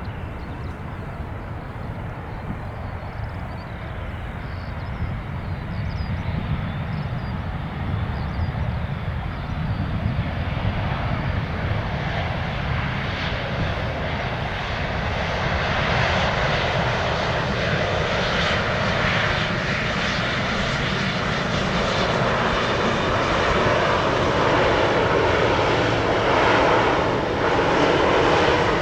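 Boeing 777F freighter's twin GE90 turbofan engines running at taxi power, a jet rumble and hiss that grows steadily louder as the aircraft comes closer.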